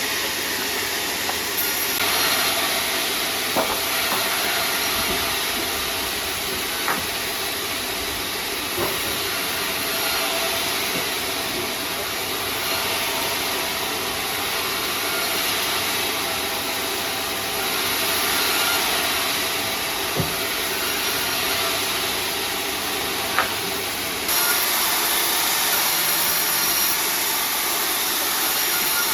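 Sawmill saw running through sengon wood: a steady, loud hissing machine noise with a few sharp knocks, growing brighter and louder about three-quarters of the way through.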